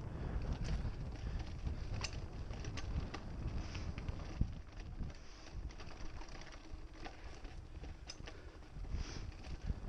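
Mountain bike riding over a dirt trail: a low rumble of tyres and wind on the microphone, with many scattered clicks and rattles from the bike and the ground. The rumble eases in the second half.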